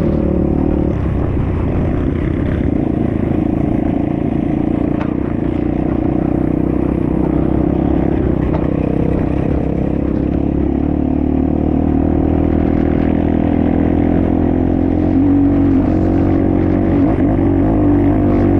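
Enduro motorcycle engine running steadily as the bike is ridden, its pitch wavering a little with the throttle and getting slightly louder about fifteen seconds in.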